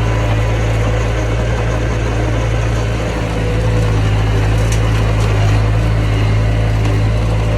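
Mini bulldozer's diesel engine running steadily with a constant low hum, dipping slightly about three seconds in.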